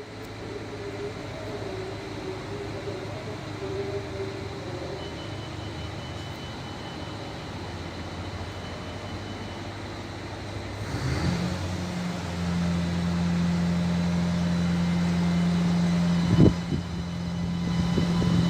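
Diesel railcar engine running, its low steady drone swelling up strongly about ten seconds in as the railcar comes close, with a single sharp knock near the end.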